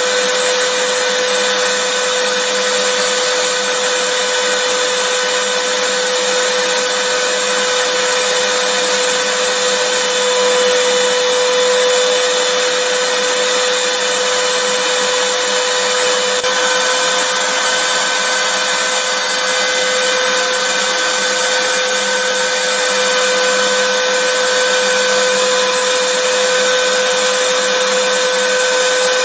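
Vacuum cleaner running steadily, a continuous whooshing motor noise with a steady whine, unchanging throughout.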